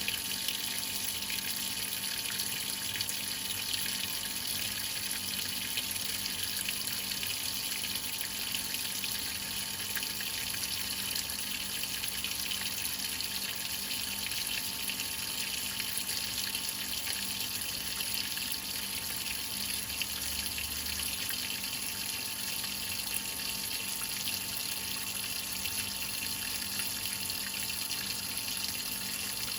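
Whirlpool top-load washing machine filling its tub, water pouring in with a steady rushing hiss and a faint hum underneath.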